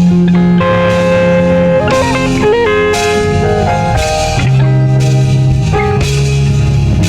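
Instrumental worship music from a band: a guitar lead line with held and bent notes over bass and a steady drum beat.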